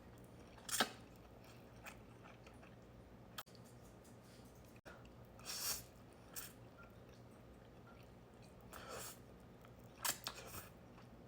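Quiet mouth sounds of a person eating instant noodles: a sharp click about a second in, then a few short, scattered chewing sounds.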